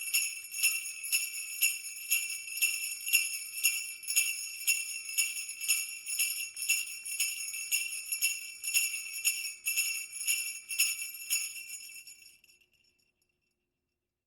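Jingle bells shaken in a steady rhythm, about two shakes a second, ringing brightly, then fading out near the end.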